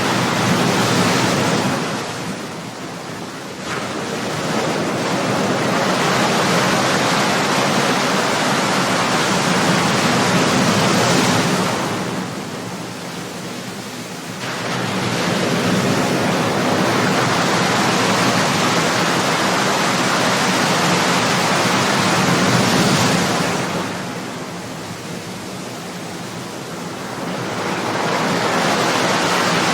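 Ocean surf: waves breaking and washing onto a shore in a continuous rush that swells and eases. It drops into brief lulls three times, about ten to twelve seconds apart.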